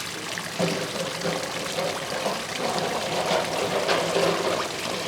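Water steadily pouring and trickling into a koi pond.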